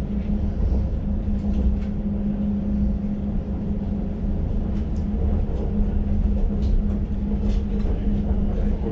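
Elizabeth line Class 345 electric train running at speed, heard from inside the carriage: a steady low rumble with a constant hum.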